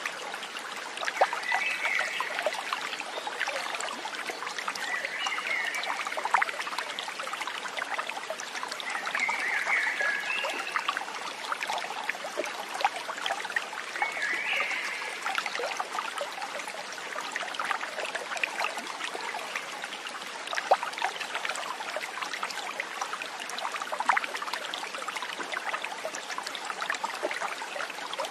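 A stream trickling and burbling steadily over stones, with many small splashes. Four short, higher calls stand out in the first half.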